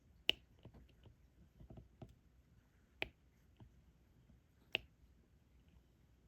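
Scattered light ticks and clicks of a diamond painting drill pen picking up small resin drills and pressing them onto the sticky canvas, with three sharper clicks near the start, about three seconds in, and near five seconds.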